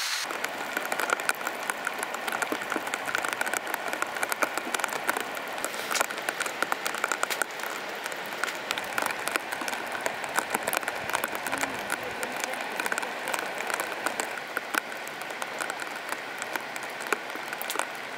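Steady rain with a dense, irregular patter of drops tapping on surfaces.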